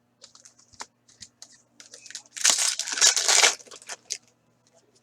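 Hockey card pack wrapper being torn open, a crinkly tearing lasting a little over a second in the middle, among light clicks and rustles of cards being handled.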